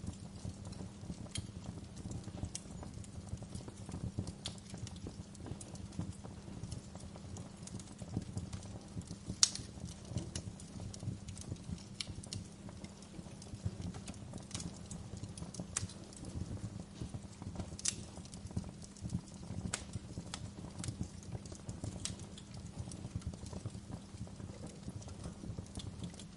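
Wood fire crackling in a fireplace: irregular sharp pops and snaps over a steady low rumble, with one loud pop about nine seconds in.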